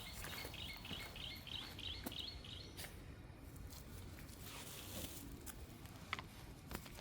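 A cicada calling in a fast pulsing series, about three pulses a second, that stops about three seconds in, over faint patter of footsteps and small clicks.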